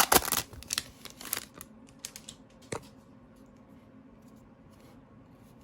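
Trading cards and their foil pack being handled: a quick run of sharp clicks and rustles in the first second and a half, one more click a little before the middle, then only faint room tone.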